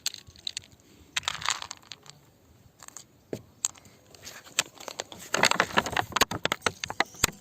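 Rock being crunched and cracked: irregular bursts of crunching with sharp clicks, densest and loudest about five to six seconds in.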